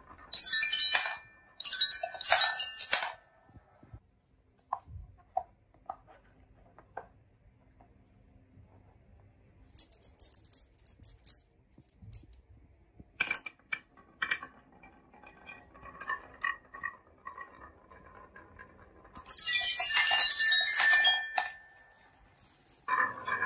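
Marbles rolling and clattering down a marble run track, with clinking and brief ringing tones. Two loud bursts come in the first few seconds and another near the end, with scattered single clicks and ticks in between.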